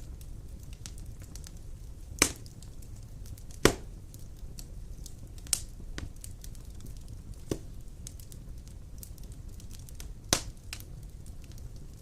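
Wood fire burning large logs in a stone fireplace: a steady low rumble of flames with scattered faint crackles and five sharp pops a second or two apart.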